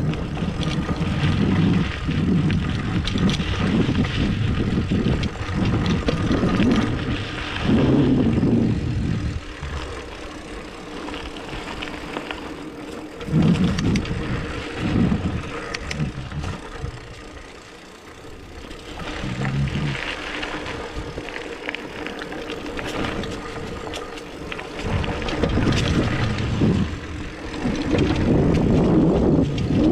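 Riding a 29er hardtail mountain bike along a dirt singletrack: rumble of tyres and wind on the microphone that swells and eases in waves, with scattered clicks and rattles from the bike.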